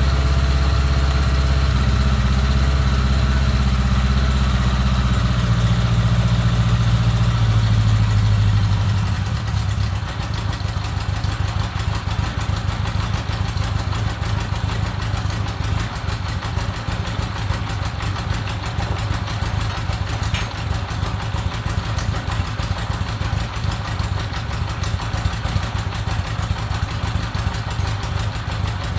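1975 Honda GL1000 Goldwing's flat-four engine running through its newly fitted exhaust: it holds a raised, steady speed, then drops about nine seconds in to a lower, even idle.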